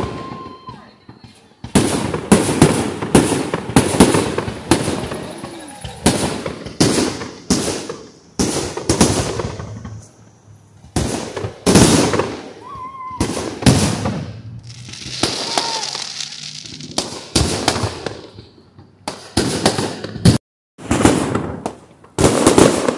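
A city fireworks display: shells bursting one after another in dozens of sharp bangs, each trailing off in an echo. Around the middle, a hiss is held for about three seconds. The sound cuts out briefly about twenty seconds in.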